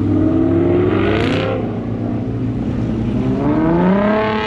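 A car engine revving hard as it accelerates. Its pitch climbs for about a second and a half, drops back, then climbs again near the end.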